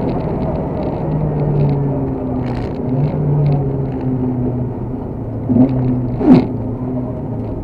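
Škoda 130 LR rally car's rear-mounted four-cylinder engine heard from inside the cockpit, running at moderate, fairly steady revs. Two short sharp bangs come about five and a half and six and a half seconds in, the second the loudest.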